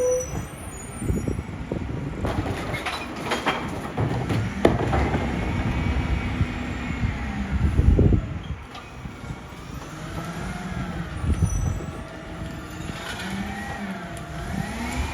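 Mack LEU garbage truck's diesel running, with clanks and knocks in the first few seconds and a loud surge about eight seconds in, then whines that rise and fall in pitch.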